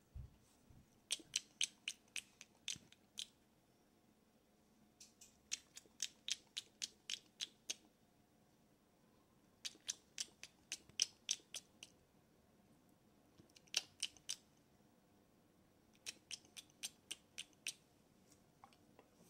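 Crisp crunching of a hard stick treat being chewed: runs of quick clicks about four or five a second, coming in five bursts with short pauses between.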